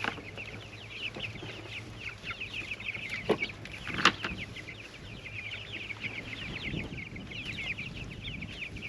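A flock of young meat-bird chicks peeping without a break: many short, falling peeps overlapping. Two sharp knocks come about three and four seconds in.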